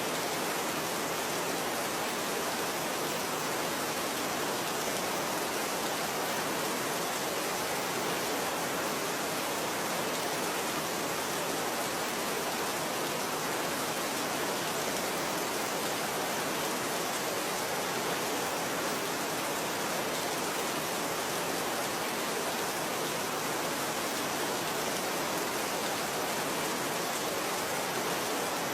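Steady, even rain falling, a continuous hiss that does not change.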